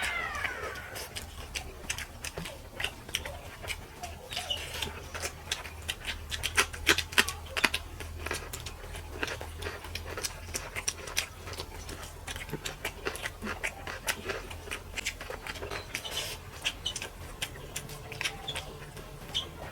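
Close-up eating sounds: rapid clicks and wet smacks of chewing and of fingers working rice and fish curry, over a steady low hum, with occasional animal calls in the background.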